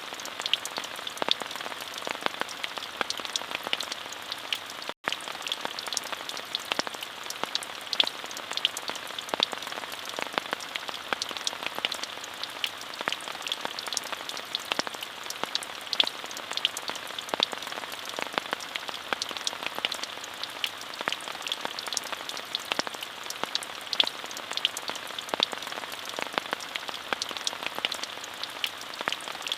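Steady rain: an even hiss packed with sharp taps of individual drops hitting a surface close by. The sound cuts out completely for a split second about five seconds in.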